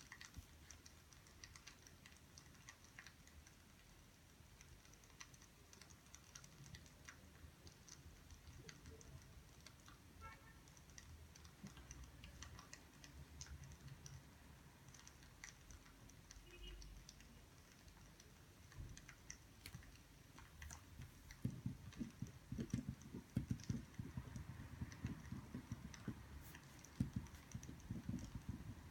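Faint scattered clicks and taps of desk work, growing busier and louder about two-thirds of the way in.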